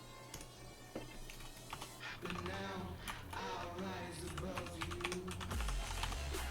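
Rapid, irregular clicking like typing on a computer keyboard. A voice joins from about two seconds in, and a low bass comes in near the end.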